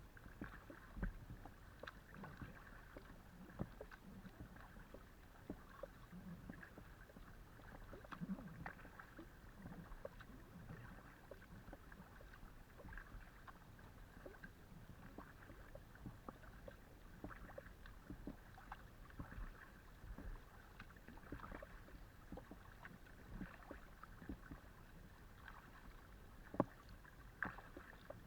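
Faint water sounds of a kayak under paddle: the blades dip and drip and water laps against the hull, with many small irregular ticks and splashes, heard through a camera mounted on the kayak.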